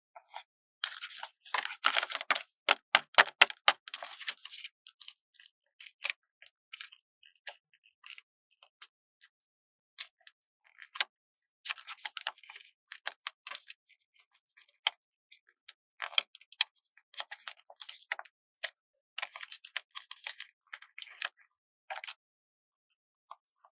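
Stickers and their paper backing sheets being peeled and handled: crisp crackling and clicking in several bursts with quiet pauses between.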